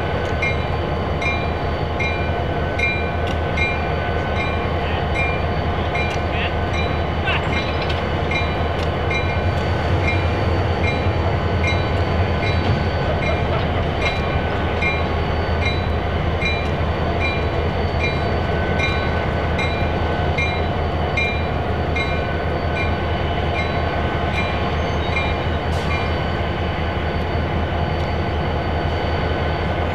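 Diesel-hauled train running with a steady low rumble, while a bell strikes about twice a second throughout.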